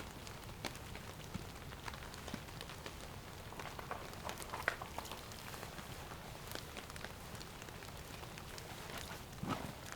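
Light rain pattering, an even hiss with many scattered sharp drop ticks.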